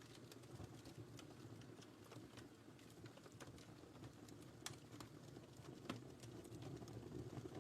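Faint wood fire crackling in a fireplace: scattered sharp pops and snaps over a low, steady rush of the flames.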